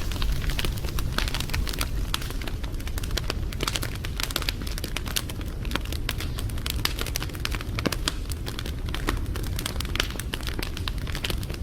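Wood fire crackling, with many quick irregular pops and snaps over a steady low rumble of the flames.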